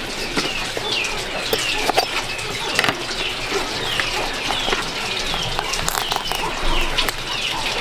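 Small birds chirping: a run of short, falling chirps repeating every half second or so, with scattered sharp clicks and knocks.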